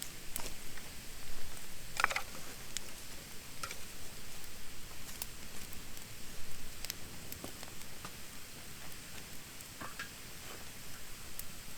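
Wood campfire of damp, thin branches burning: irregular sharp pops and crackles over a steady faint hiss, with one louder crackle about two seconds in.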